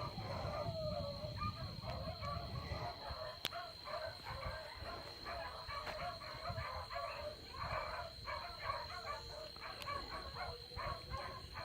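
A pack of beagles running a rabbit, baying and chopping in a steady stream of overlapping short calls, faint enough that the volume must be turned up to hear them.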